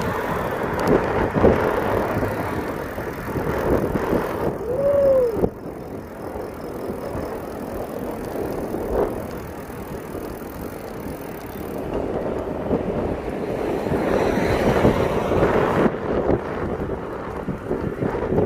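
A mountain bike in motion, with the rush of wind on the microphone and the rolling noise of the bike. About five seconds in there is a brief rising-and-falling tone.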